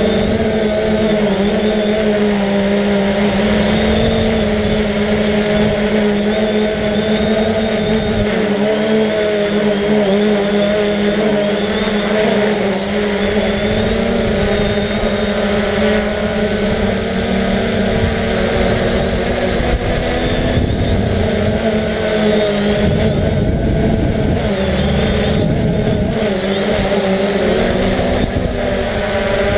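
3DR Solo quadcopter's motors and propellers buzzing steadily in flight, a wavering multi-pitched drone, with wind rumbling and buffeting the microphone.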